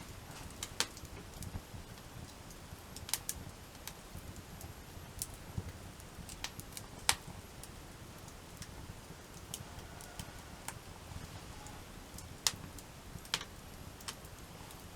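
Wood campfire crackling: irregular sharp pops and snaps, a few of them loud, over a low steady hiss.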